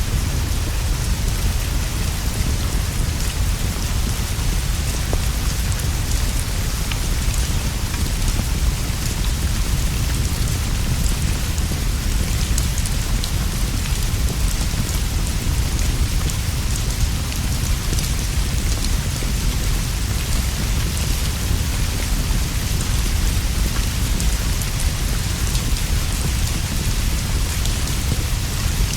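Steady rainfall with a deep, continuous rumble underneath and faint scattered ticks of drops throughout.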